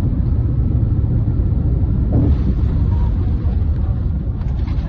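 Steady, loud low rumble of a Boeing 787 jet airliner on the runway during a takeoff rejected after a bird strike.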